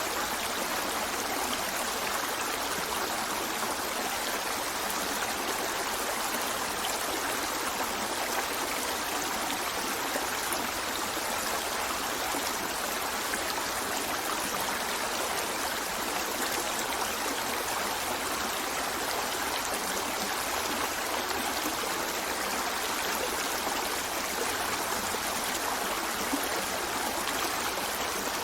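River water running over rocks, a steady rushing and trickling with no change in level.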